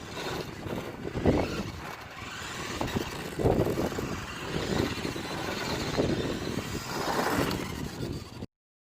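WPL D12 1:10 RC drift truck running: its small electric motor and tyres on the ground, coming in several surges, until the sound cuts off abruptly near the end.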